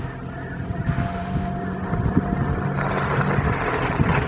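1930s Morris 8 Series 1's small four-cylinder sidevalve engine running at a steady low speed as the car rolls slowly forward on gravel. A broad rushing noise builds from about three seconds in.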